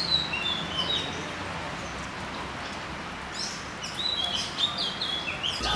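Small birds chirping, short falling whistled notes in two spells: at the start and again from about three and a half seconds in, over a steady background hiss of outdoor noise.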